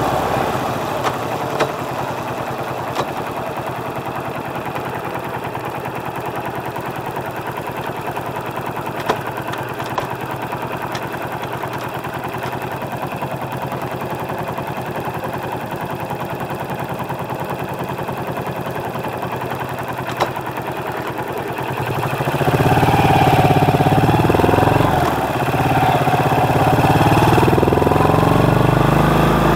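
Small motorcycle engine heard through a microphone under the seat, running steadily at low speed. About two-thirds of the way in it gets louder and its pitch climbs as the bike accelerates, dipping briefly before rising again.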